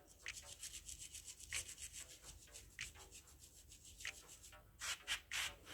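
Brush scrubbing a rusted car body in quick back-and-forth strokes, several a second, with a few louder, heavier strokes near the end.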